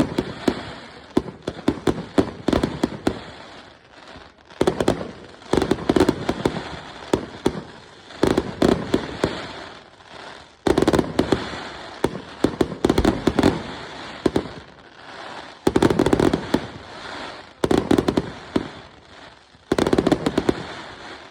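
Fireworks going off in quick volleys: sharp bangs followed by dense crackling, with a new burst every two to three seconds.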